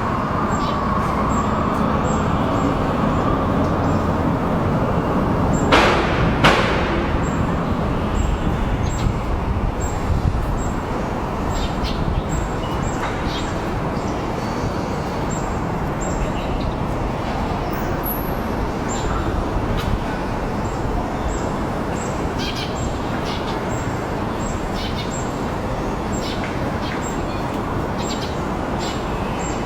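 Steady outdoor background noise like distant road traffic, with short high bird chirps scattered through it. Two loud sharp knocks come close together about six seconds in.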